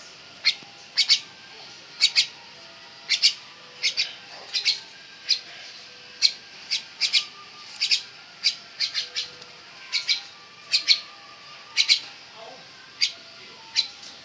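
Black myna giving short, sharp calls over and over, often in quick pairs, about one to two a second.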